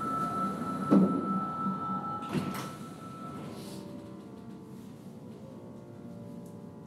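Doors of a Sapporo Subway Namboku Line 5000-series car closing: a steady high warning tone sounds while the sliding doors shut, with a thump about a second in and a sharp knock a moment later. The tone stops and the stationary car settles to a quieter steady hum.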